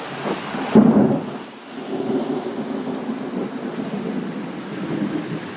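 Thunderstorm: rain falling and thunder rumbling, loudest about a second in, then a steady low rumble.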